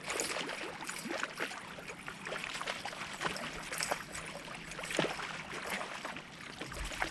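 Water splashing and sloshing around a paddle board, with irregular small splashes and knocks. The loudest one comes about five seconds in.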